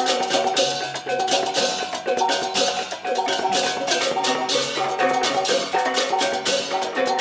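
Balinese gamelan music: fast repeated cymbal clashes over ringing metallic gong-chime tones.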